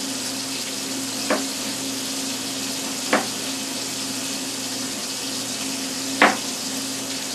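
Food sizzling steadily in a hot frying pan, with three short knocks spread through it and a faint low hum beneath.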